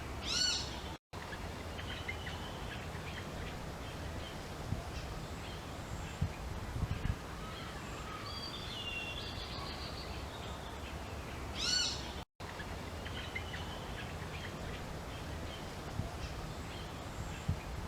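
Wild birds chirping and calling over a steady hiss of outdoor background noise. A louder quick run of chirps comes twice, about half a second in and again about twelve seconds in, each followed by a brief cut to silence. There are a few soft low thumps in between.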